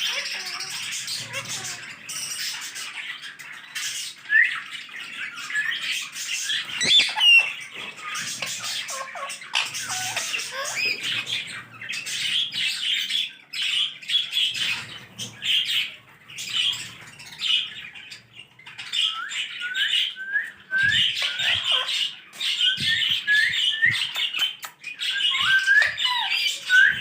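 Green parrots chattering and squawking in a steady stream of short harsh calls, with runs of quick rising chirps repeated in the second half.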